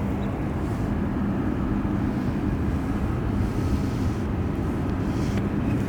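Jet airliner engines running: a steady rumble with a low hum.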